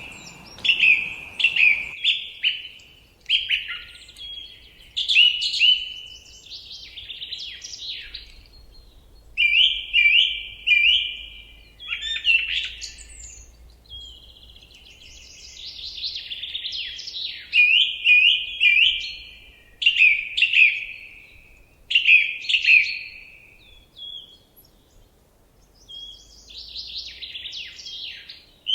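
Common nightingale singing: a run of varied phrases of fast repeated notes and whistles, each a second or two long and separated by short pauses. A soft rushing background fades out about two seconds in.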